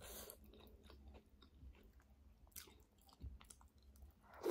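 Faint close-up chewing and wet mouth sounds of a person eating by hand, with a louder mouthful taken near the end.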